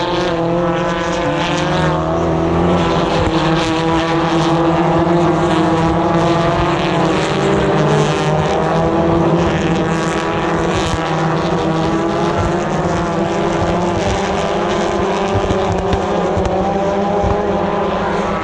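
Several touring car engines at race speed as the field passes, many engine notes overlapping, their pitches rising and falling.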